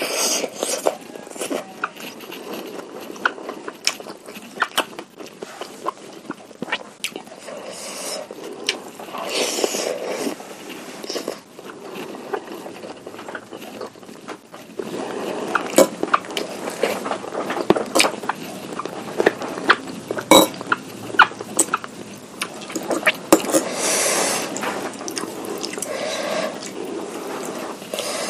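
ASMR eating of beef meatballs in spicy broth: a spoon clinking and scraping against the bowl, with slurping and chewing in between, and many sharp clinks throughout.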